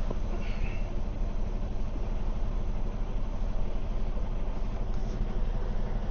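Semi truck's diesel engine idling steadily with a low, even rumble.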